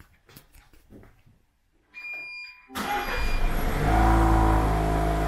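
A few faint clicks, then a short electronic chime about two seconds in, and the 2020 Land Rover Defender's engine starts suddenly and settles into a steady idle.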